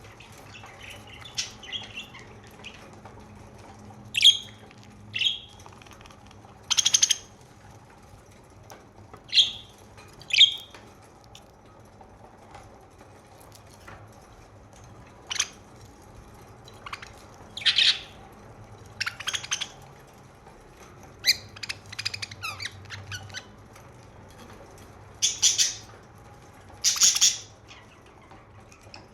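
Pet budgerigars calling: short chirps and harsher squawks, one every second or two with quiet gaps between, over a faint steady low hum.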